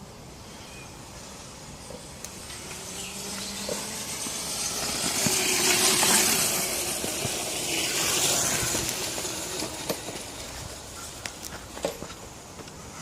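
Electric dirt bike riding past: tyre and dirt noise with a faint motor whine, building to a peak about halfway through and then fading away.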